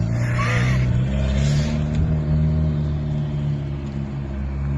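Eagle Talon's turbocharged four-cylinder engine running steadily as the car creeps along at low speed, its exhaust not yet fitted.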